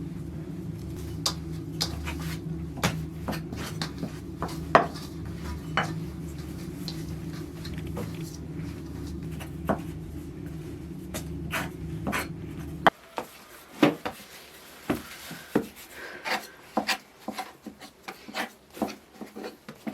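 Dishes and cooking utensils clinking and knocking now and then, over a steady low hum that cuts off suddenly about two-thirds of the way through.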